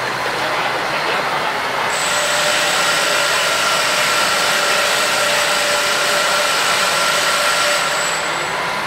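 Makita DRC200Z robot vacuum cleaner running: a steady hiss of its suction fan, with a thin high whine that sets in about two seconds in and stops near the end.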